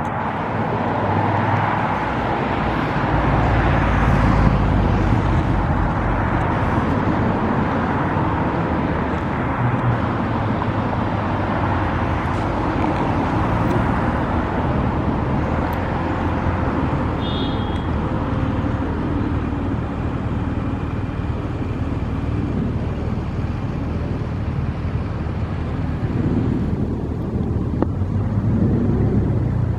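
Steady city road-traffic rumble from cars on the riverside roads, with a brief higher squeal about halfway through.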